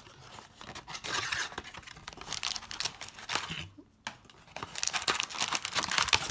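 Crinkling and rustling of plastic-wrapped trading card packs being handled and sorted, in two spells with a short lull about halfway.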